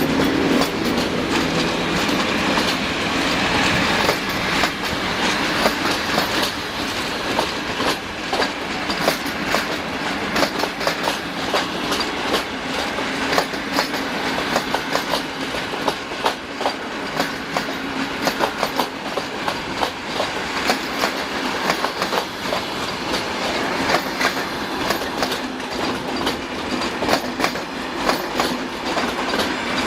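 Passenger train hauled by an EU07 electric locomotive pulling out, its coaches rolling past with a dense, irregular clatter of wheels over rail joints and points. A humming tone in the first few seconds fades away.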